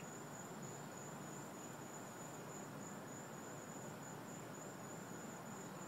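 Insects trilling: one steady, high-pitched trill over a faint background hiss.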